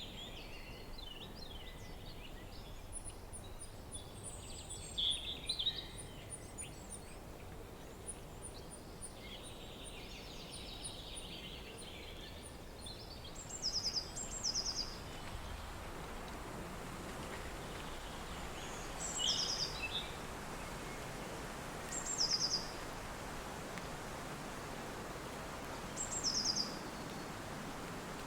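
Steady wind noise with wild birds singing over it. In the first half, fast series of thin high notes and other chirps; later, one bird repeats a short, high trilled phrase every three to four seconds, while the wind grows a little stronger.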